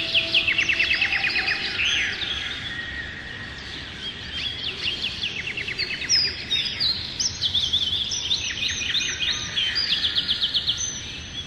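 Several songbirds singing at once, with fast trills of rapidly repeated notes and short chirps, over a steady background hiss.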